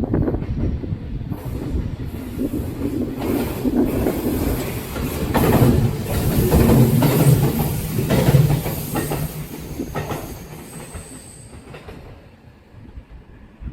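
Kintetsu electric train passing at speed, its wheels clattering over the rail joints in repeated clickety-clacks. It grows loudest around the middle and then fades away as the train recedes.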